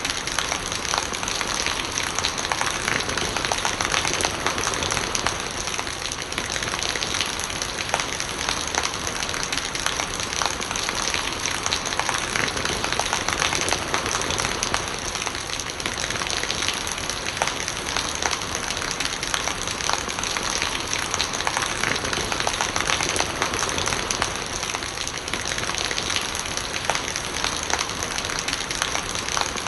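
Steady rain falling, with many close drops heard one by one.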